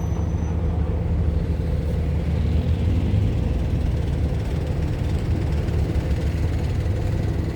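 Heavy engines idling, a steady low hum with no change in pitch.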